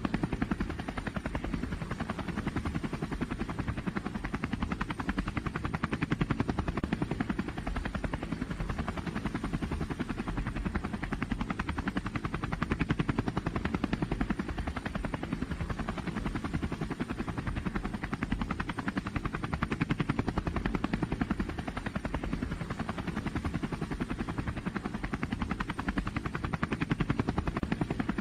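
Engine of a truck or tractor pulling competition vehicle running hard and loud, with fast, even firing pulses. It holds fairly steady, swelling a little in loudness every several seconds.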